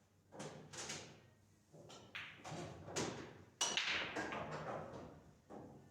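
Pool balls clacking against each other on a pool table: a string of sharp clicks, the loudest about three and a half seconds in.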